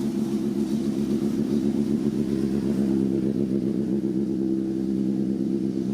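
A motor vehicle engine running steadily at a constant pitch.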